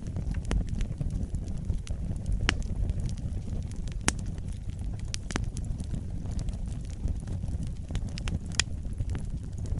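Wood fire burning in a fireplace: a steady low rumble of the flames with irregular sharp crackles and pops, the loudest about four seconds in and again near the end.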